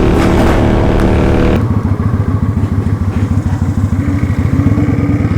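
Kawasaki Vulcan 900's V-twin running under way with road and wind noise. About a second and a half in, the throttle closes and the engine drops to a slow, evenly pulsing beat.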